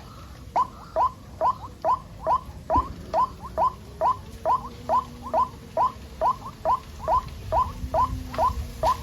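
White-breasted waterhen chicks peeping: short, upward-sliding peeps repeated evenly about two to three times a second, after a brief pause at the start.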